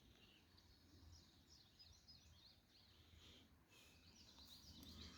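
Near silence with faint bird song: two runs of quick, high chirping notes, the second near the end.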